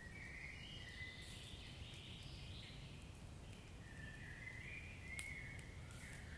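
Wood fire burning in a fireplace: a low, steady rumble with a few sharp crackle pops, the clearest about five seconds in. A faint, wavering high-pitched whistling or chirping comes and goes over it.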